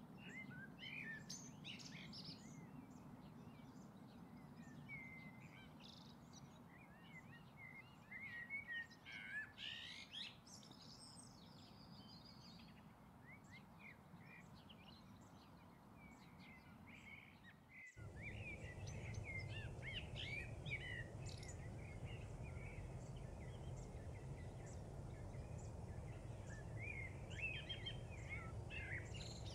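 Birds chirping: many short, quick calls, some in a busy cluster about ten seconds in, over a low steady background hum that gets louder about two-thirds of the way through.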